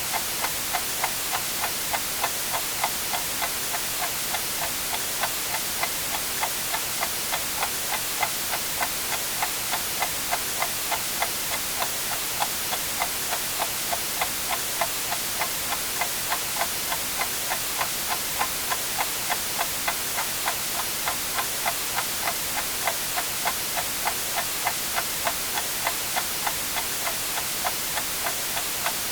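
Clock ticking evenly, about two ticks a second, over a steady hiss of white noise.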